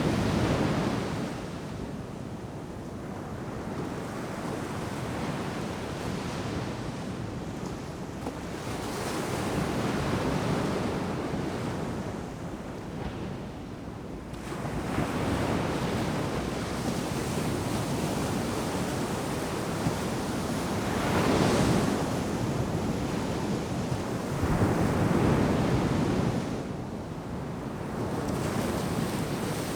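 Ocean surf breaking and washing ashore, rising and falling in surges every few seconds, the loudest wave about two-thirds of the way through.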